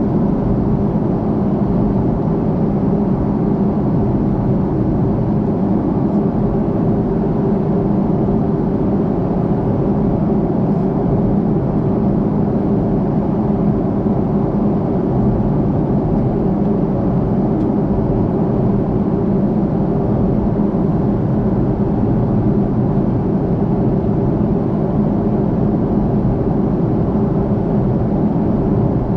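Steady drone of an Airbus A330-300 airliner's Rolls-Royce Trent 700 engines and rushing air, heard from a window seat inside the cabin in flight.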